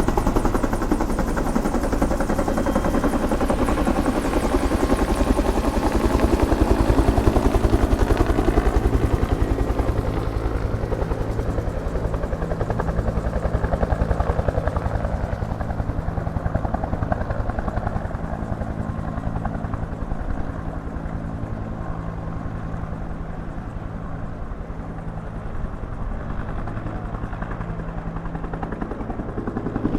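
Helicopter running, a steady pulsing beat of the rotor over engine drone. After about ten seconds it grows gradually fainter and loses its higher sounds.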